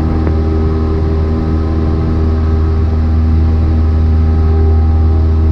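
Cessna 172's piston engine and propeller droning steadily in flight, an even low hum with steady overtones, getting slightly louder about halfway through.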